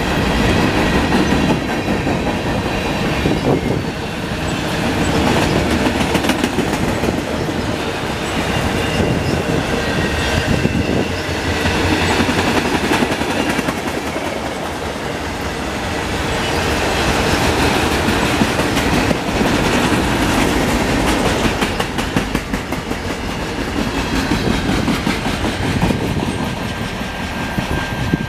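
Freight cars rolling past close by, their steel wheels clattering over the rail joints, with thin high wheel squeal at times. The sound eases near the end as the last car goes by.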